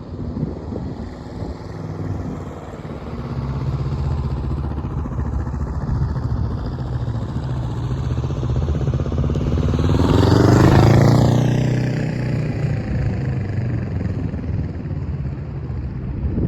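Motorcycle engine running on the move, with steady engine tones building a few seconds in. About ten seconds in it swells louder, rising and then falling away.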